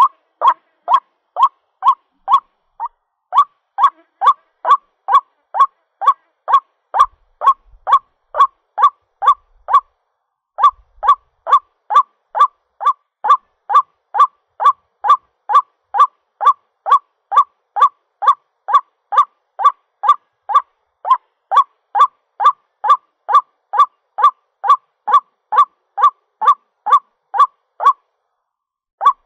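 White-breasted waterhen giving its repeated call, a long series of short, evenly spaced notes at about three a second, broken by brief pauses. It is the call the bird uses for its mate, used here as a lure.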